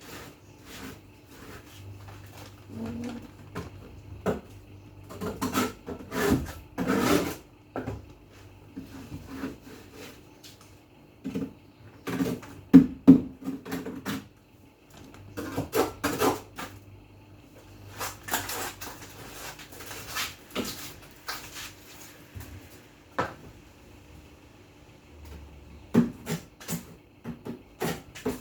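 Kitchen items being handled while a fridge is cleaned out: irregular knocks, clatter and rubbing of containers, shelves and drawers, loudest in bursts around a quarter and half way through, over a faint steady hum.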